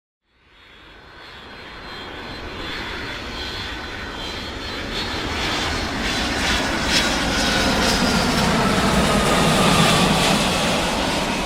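Aircraft flying past: a rushing engine noise swells from silence over several seconds, peaks near the end and begins to fade, with a faint tone gliding slowly downward as it passes.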